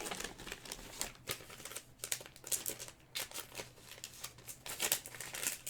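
Trading cards and pack wrappers being handled: a run of irregular light clicks and crinkles as cards are flipped and moved.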